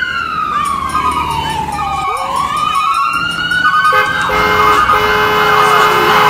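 Emergency-vehicle siren wailing: one slow glide down in pitch over about two seconds, then a rise back up. About four seconds in, a steady horn-like tone of several notes joins it.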